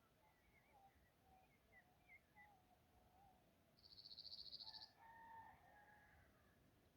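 Birds calling faintly in short chirping, warbling phrases. About four seconds in, a rapid high trill lasting about a second stands out as the loudest sound, followed by a few more calls.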